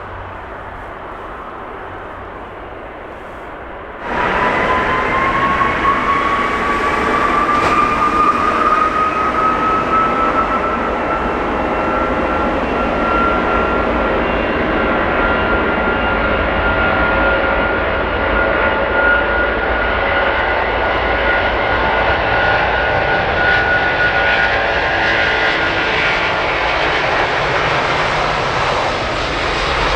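Jet airliner engines: after a quieter stretch the sound jumps up suddenly about four seconds in, becoming a loud jet roar with a high whine that rises over several seconds and then holds steady over a low rumble.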